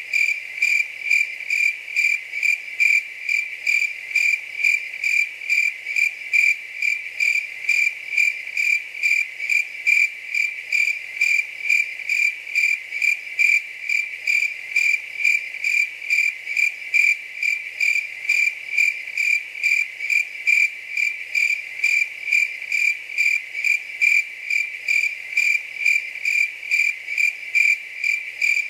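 A cricket chirping steadily in a regular rhythm, about two to three high-pitched chirps a second.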